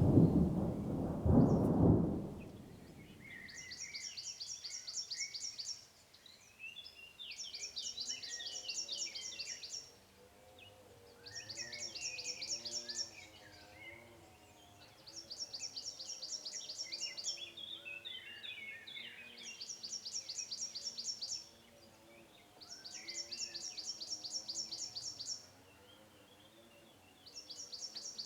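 A rumble of thunder dies away in the first two seconds. Then a high, rapid trill repeats about every four seconds, each lasting two to three seconds, with softer bird chirps in between.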